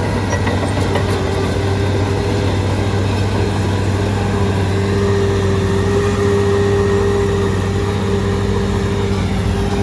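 Shantui DH17C3 bulldozer's diesel engine running steadily under load, a deep even drone with a steady higher hum above it.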